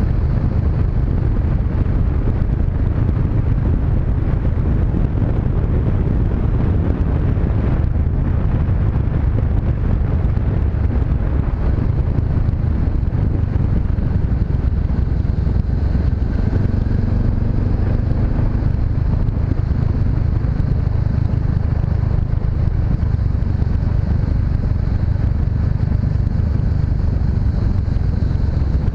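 Honda CB500X parallel-twin engine running at a steady cruise while riding, mixed with wind noise on the microphone.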